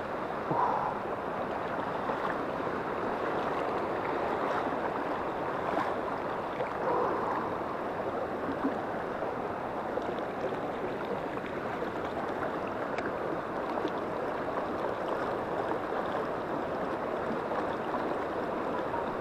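Mountain river water rushing over stones: a steady, even wash.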